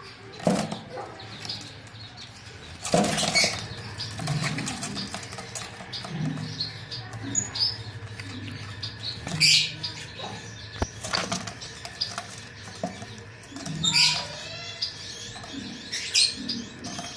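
Aviary birds flapping their wings in irregular flurries, with scattered short chirps.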